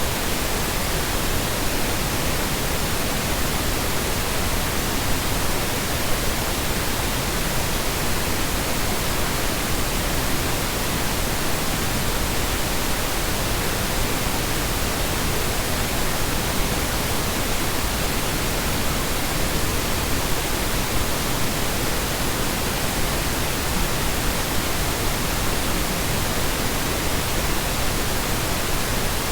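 Steady generated colour noise: an even, unchanging hiss with no rhythm, tones or breaks.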